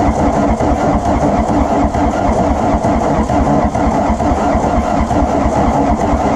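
Volkswagen Rabbit diesel engine being cranked over by the starter in a steady, fast rhythm, turning over but not yet catching after sitting for years.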